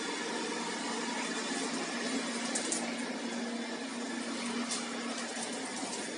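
Robot vacuum cleaner running with a steady whir and low hum, with two brief clicks along the way.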